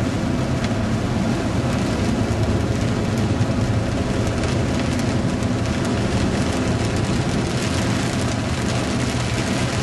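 Heavy thunderstorm rain falling steadily, with many fine drop ticks, over a steady low rumble.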